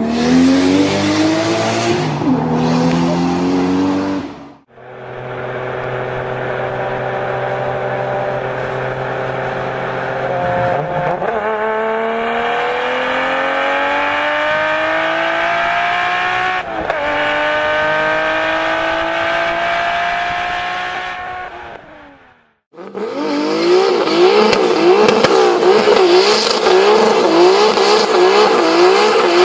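Car engines at full throttle in several short clips: revs climb steadily, broken twice by sudden drops like gear changes, with two brief cuts to silence. Near the end the engine note wavers up and down rapidly.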